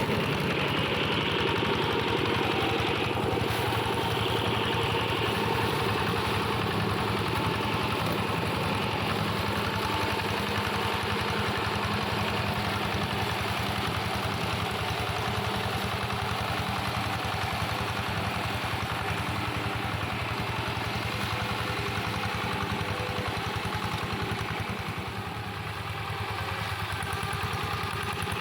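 Engine of a two-wheel hand tractor modified as a grass and brush mower, running steadily, with a brief drop in level near the end.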